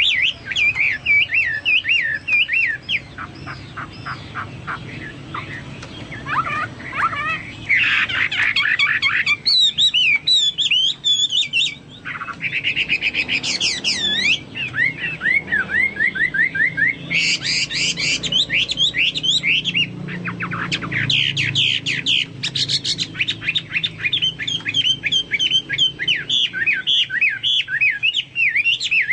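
A Chinese hwamei sings continuously: a loud, varied song of fast repeated up-and-down whistled notes and rapid trills, changing phrase every few seconds, in a style resembling a leafbird's (cucak) song.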